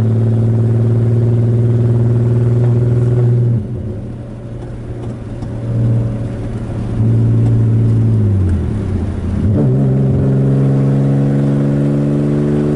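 BMW E36 engine and exhaust heard from inside the cabin, loud and steady, going quieter about three and a half seconds in. Around eight and a half seconds the revs fall away, then they climb slowly again from about ten seconds as the car pulls away.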